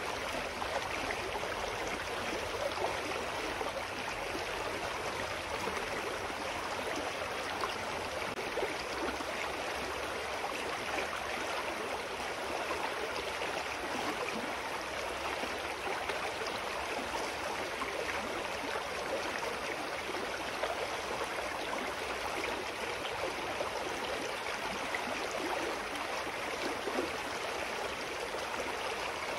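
A small, clear forest stream running over rocks: a steady rushing and babbling of flowing water.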